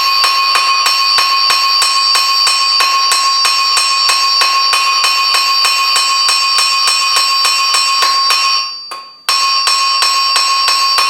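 Hammer blows on an anvil, forging the head of a hot horseshoe nail flat, at a steady three or four blows a second, each with a bright metallic ring from the anvil. The blows fade out and stop briefly about nine seconds in, then start again.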